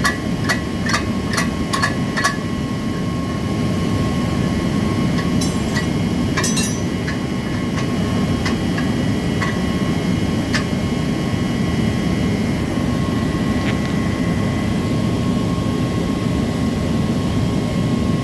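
Sharp metal taps, about two to three a second for the first two seconds, then a few scattered knocks, while work goes on dismantling a centrifugal pump to remove its impeller. Steady machinery noise with a constant whine runs underneath.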